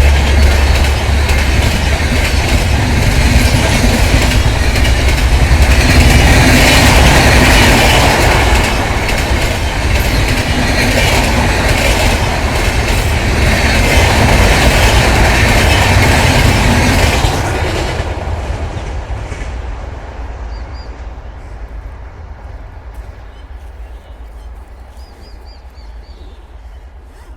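Train passing close by, its wheels clattering over the rail joints. About eighteen seconds in the noise starts to fade steadily as the train moves away, and a bird chirps faintly near the end.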